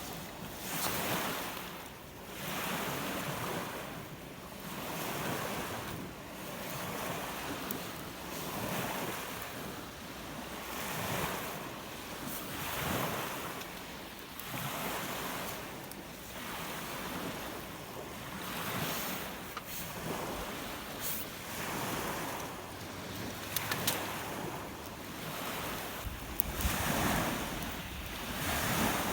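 Rough lake waves breaking and washing on the shore in a strong wind, the surf rising and falling every couple of seconds. Wind buffets the microphone with a low rumble near the end.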